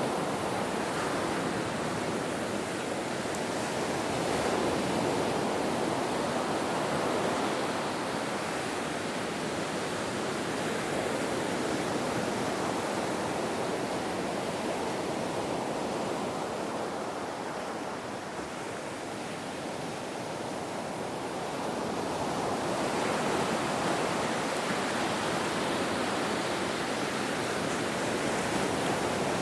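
Ocean surf: a continuous wash of waves that swells and eases slowly, dropping back for a few seconds past the middle and building again soon after.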